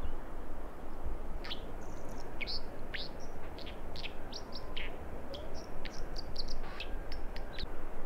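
A small bird giving a quick run of short, sharp high chirps, many sweeping steeply downward, starting about a second and a half in and stopping just before the end, over a steady rushing background noise.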